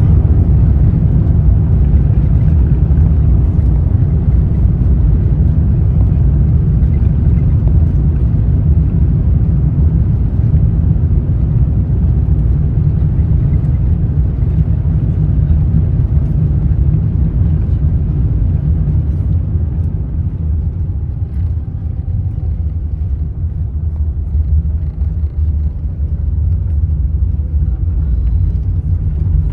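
Airbus A350-900 cabin noise just after landing: a heavy, steady low rumble from the engines and wheels on the runway that slowly eases as the aircraft decelerates, with a faint falling whine in the second half as the engines spool down.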